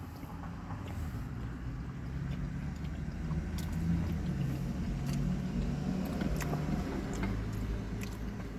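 Car engine idling, a steady low hum heard from inside the cabin, with a few light clicks and rustles over it.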